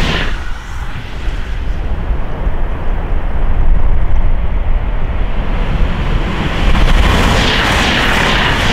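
Fast express train rushing past at speed through snow: a loud roar with a deep rumble, swelling to its loudest about halfway through.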